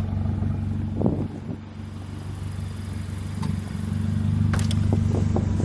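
A motor vehicle's engine idling steadily, growing louder a few seconds in, with a few light knocks and clatters of handling noise.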